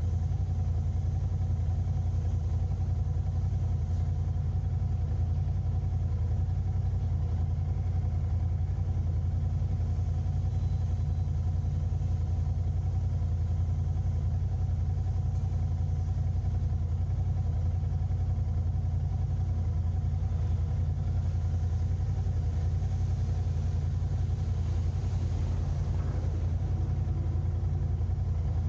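A car driving in city traffic: a steady low drone of engine and road noise that holds even throughout.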